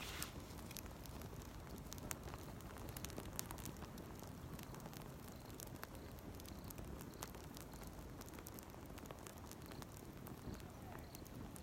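Campfire burning, crackling with scattered sharp pops and snaps over a low, steady rush.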